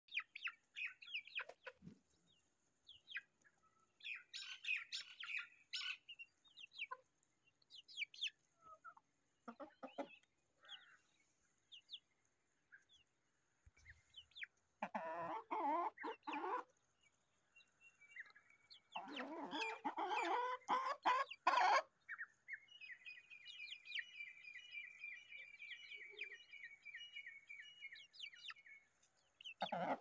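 Bird calls: scattered short high chirps throughout, two louder, fuller calls of about two seconds each around the middle, and a long high trilling call in the last quarter.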